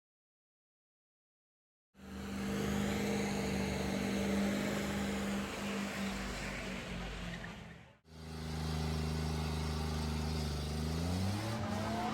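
Dead silence for about two seconds, then a truck engine running steadily. After a cut about eight seconds in, another engine runs steadily and revs up, its pitch rising, near the end.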